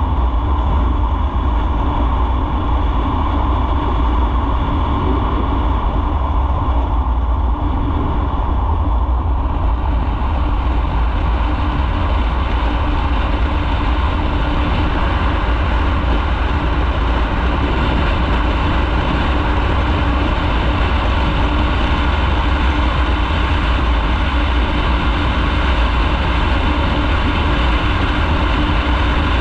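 Motorcycle on the move: a steady mix of engine and riding noise with a strong deep rumble.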